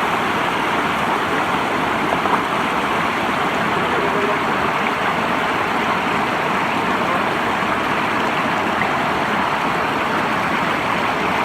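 Fast-flowing river water rushing over rocks: a steady, even rush.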